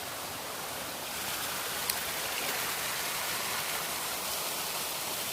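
River water flowing, a steady rushing sound, with one sharp click about two seconds in.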